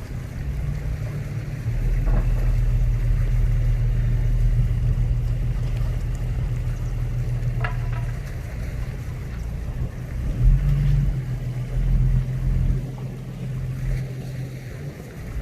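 Wind buffeting the microphone at the seashore: a heavy low rumble that swells in gusts, over a faint hiss of the sea.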